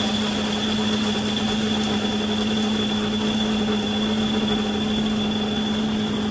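The built-in grinder of a Russell Hobbs Chester Grind and Brew coffee machine grinding coffee beans: a steady, very loud motor sound with an unchanging hum.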